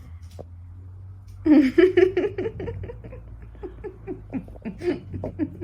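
A person laughing: a loud burst starting about a second and a half in, then a quick run of short falling "ha" pulses that gradually die down, over a steady low hum.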